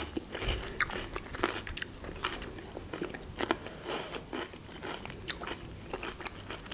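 A person chewing a mouthful of food right up against the microphone: a rapid, irregular run of sharp wet mouth clicks.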